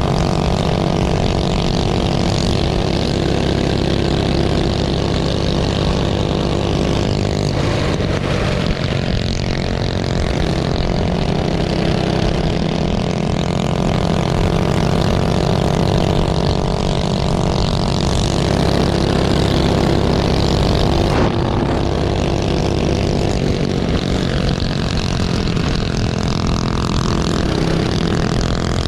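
Minibike engine running hard and nearly steady in pitch, with only small rises and dips in speed.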